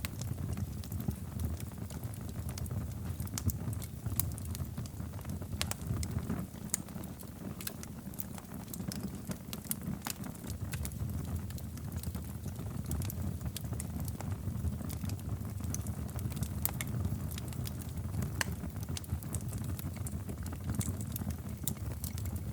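Wood fire crackling in a fireplace: a steady low rumble of the flames with frequent small sharp pops and snaps scattered irregularly throughout.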